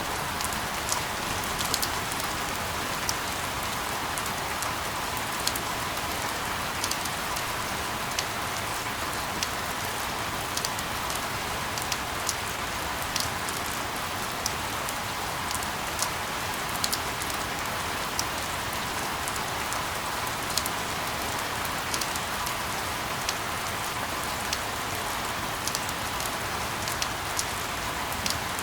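Steady rain: an even hiss, strongest in the middle range, with frequent sharp ticks of individual drops scattered through it.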